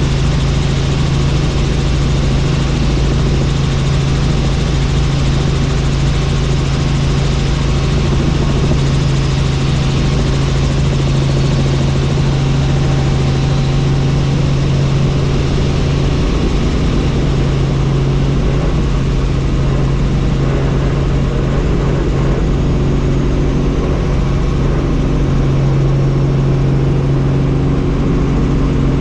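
Helicopter running steadily: a constant low hum with a broad rushing noise over it.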